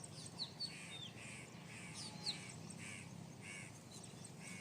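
Birds calling: a run of short, harsh calls repeated roughly every half second, with a few quick high downward chirps in the first half, over a faint low steady hum.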